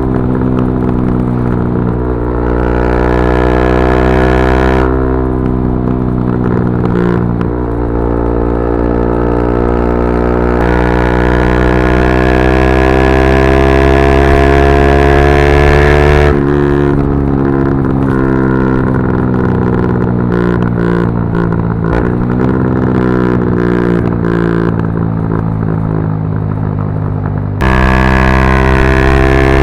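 Yamaha R125's single-cylinder four-stroke engine through a straight-through Dominator GP exhaust, running hard under way. The note climbs steadily as it accelerates and changes abruptly about halfway through and again near the end.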